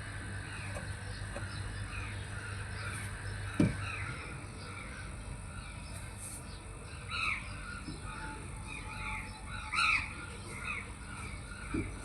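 Birds calling over and over, short chirping calls, a few louder ones later on. A low steady hum underneath cuts off with a click about four seconds in.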